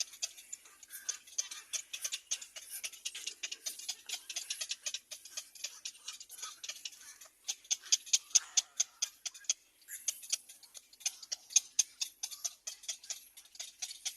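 Small birds at the nest giving a rapid run of short, high chips or ticks, several a second, with brief pauses about seven and ten seconds in.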